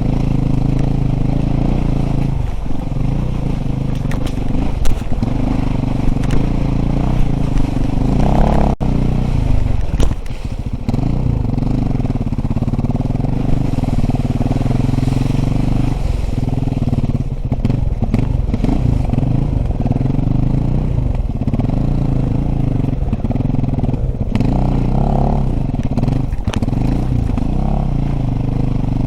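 Dirt bike engine running loudly, its pitch rising and falling as the throttle is worked, with scattered knocks and clatter over it.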